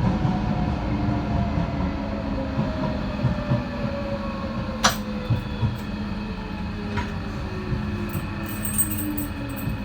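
Docklands Light Railway train heard from inside the car, running on the track with a steady rumble and hum while the motor whine slowly falls in pitch as the train slows. A sharp click about five seconds in, and a lighter one about two seconds later.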